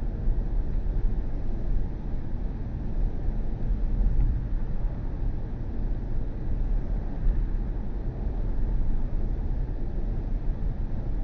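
Steady low rumble of tyre and road noise from a BMW i4 M50, a battery-electric car, driving along with no engine sound.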